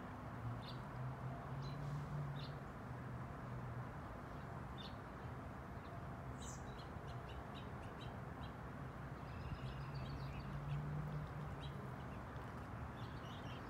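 Wild birds calling in short, scattered chirps, with a brief stretch of song near the middle, over a steady low hum and constant outdoor background noise.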